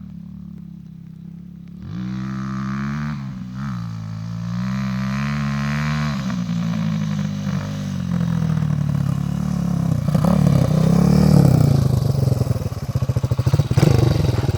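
250 cc dirt bike engine ticking over low, then from about two seconds in revving and pulling, its pitch rising and falling as the throttle is worked. It is loudest about ten to twelve seconds in, then drops back to a choppy, uneven idle near the end.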